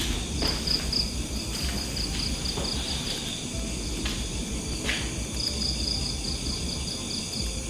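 Crickets chirping: a fast, high pulsed chirp in two long runs, the second starting about five seconds in, over a steady high drone of other insects.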